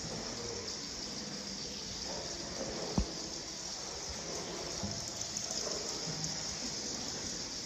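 Water sloshing and trickling in the cave river as a steady hiss, with one sharp knock about three seconds in.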